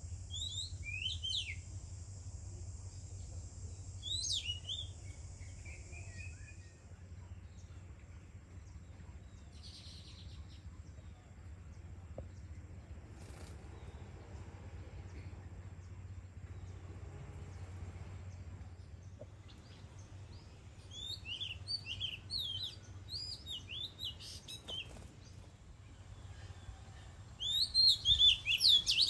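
Oriental magpie-robins singing. There are a few quick falling whistles in the first seconds, then a run of varied whistled notes later on, and the loudest song comes near the end. A steady high hiss sounds under the first few seconds.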